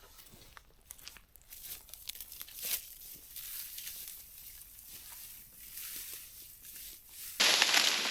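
Scattered crackles and snaps over a faint hiss, then a sudden, much louder rustling noise starting near the end.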